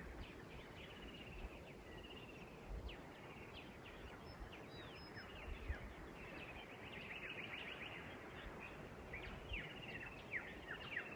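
Dawn chorus of many birds calling together, faint, with quick downward-sweeping chirps and whistles that grow busier in the second half.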